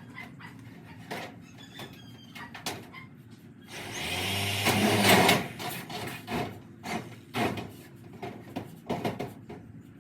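Scattered knocks and clanks of metalworking. About four seconds in comes a short, louder hissing, crackling burst with a low hum under it, lasting under two seconds.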